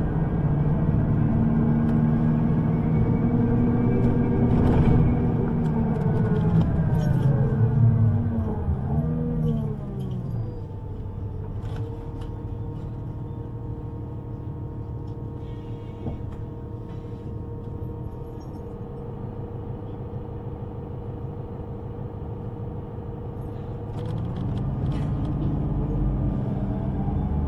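Electric underground train's traction motors whining down in pitch as it brakes to a stop, over a heavy rumble. It then stands with a quieter steady hum, and near the end the whine starts rising again as it pulls away.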